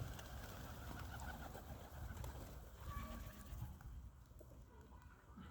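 Birds calling, a few short faint calls, over a steady low rumble.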